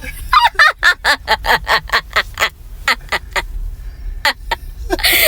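A person laughing hard in quick repeated bursts, about four a second, breaking off briefly about halfway and then going on.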